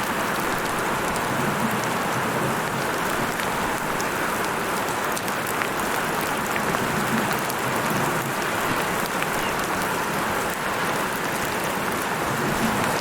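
Heavy rain falling steadily, a dense even hiss dotted with many small drop ticks.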